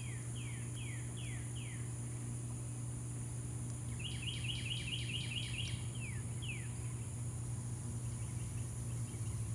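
A bird calling outdoors: a short series of downward-sliding whistled notes, then a fast run of chirps about four seconds in, and a few more notes after. A steady high insect drone and a low hum run underneath.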